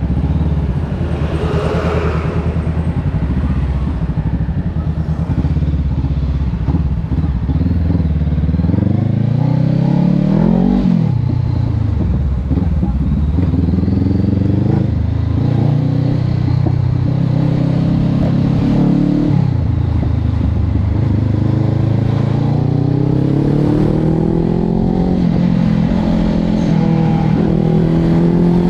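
Honda CB500X's parallel-twin engine through a Termignoni exhaust, running steadily at low revs for several seconds, then revving up and easing off. After that the pitch climbs several times, each climb broken by a sudden drop, as the bike accelerates through the gears.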